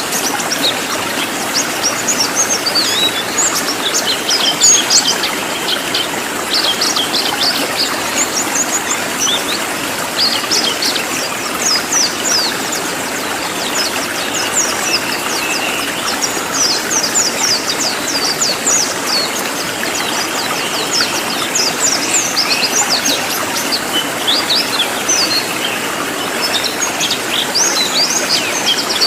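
Cililin songbird singing a rapid, continuous run of short, sharp, high chirps in dense volleys, over a steady rushing hiss like running water.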